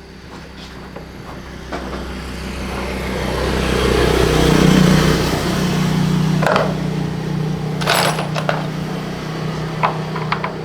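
A machine motor running up to speed over a few seconds and then running steadily with a low hum, with a few sharp knocks in the second half.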